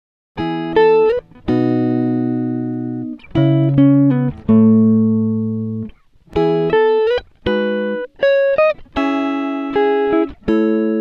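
Background music: a plucked-string, guitar-like melody in short phrases of notes that ring and fade. It starts about half a second in, after a brief silence.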